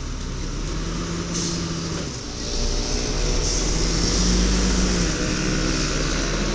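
Garbage truck engine running, rising in level about two and a half seconds in, with short hisses of released air about a second and a half in and again from about three and a half seconds.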